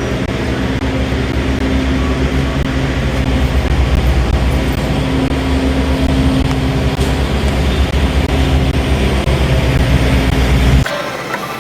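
Semi-truck diesel engine running steadily, heard from inside the cab as the truck pulls away, rising a little in pitch partway through; it cuts off suddenly near the end.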